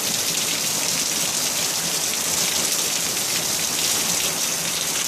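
Heavy rain falling steadily in a thunderstorm: an even, unbroken hiss.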